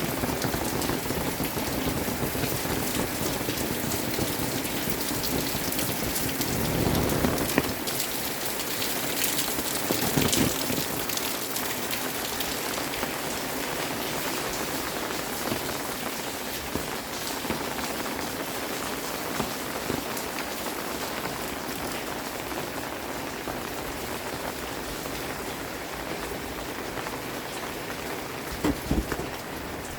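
Steady rain falling, an even patter of drops on surfaces. There is a louder swell about seven seconds in and a couple of short knocks near the end.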